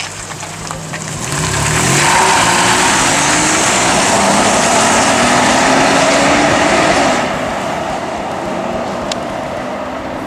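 Volga Siber's swapped-in Honda J32A 3.2-litre V6 pulling away under hard acceleration, its engine note rising, dropping back and rising again. It is loud for several seconds, then eases off as the car moves away.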